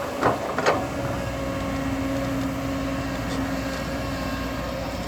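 Bulldozer diesel engine running steadily, with two sharp knocks in the first second.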